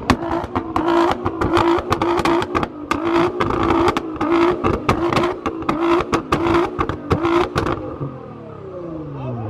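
A car engine is held at high revs with a rapid crackle of exhaust pops over a pulsing engine note. About eight seconds in it is let off and the revs fall away.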